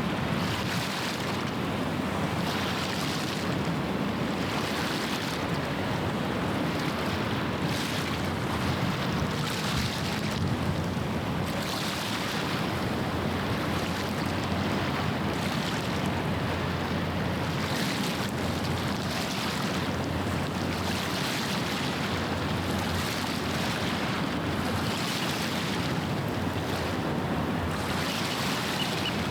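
Small waves washing against the shore, a fresh wash every second or two, over a steady low rumble and wind on the microphone.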